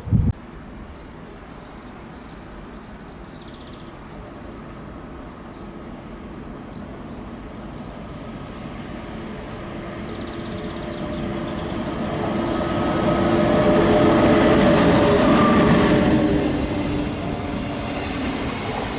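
A train approaching and passing close by, growing steadily louder, loudest about two-thirds of the way through with a few steady tones over its rumble and hiss, then easing off. A brief sharp knock at the very start.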